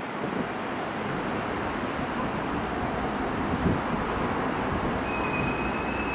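Long Island Rail Road Bombardier M7 electric train, towing unpowered Kawasaki M9 cars, running toward the listener with a steady rumble over the rails. A single knock comes a little over halfway through, and a steady high-pitched squeal starts near the end.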